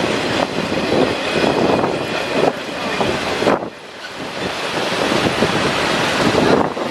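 A Norfolk Southern freight train rolling past close by: a loud, continuous rumble and clatter of wheels on the rails. The noise dips briefly about three and a half seconds in.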